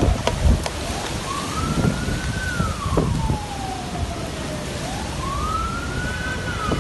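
A siren wailing, its pitch slowly rising and falling about once every four seconds, over a steady rush of storm wind noise with low gusty rumbling.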